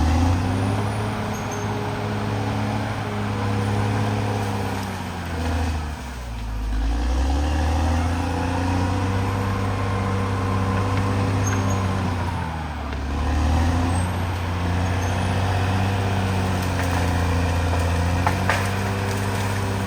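CAT D6R XL bulldozer's diesel engine running steadily under load. Its pitch sags and recovers three times, about six seconds in, about twelve seconds in and at the end, as the engine is pulled down and picks back up.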